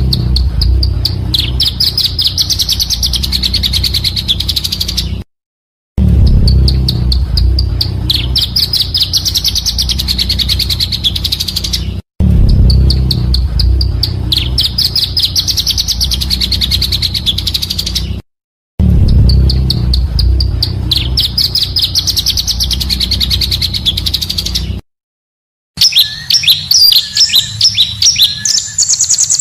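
Looped recording of a pancawarna bird's song: a rapid high trill, repeated in segments of about six seconds with short silent gaps between them and a low rumble of background noise underneath. Near the end it switches to a quicker series of sharp chirps.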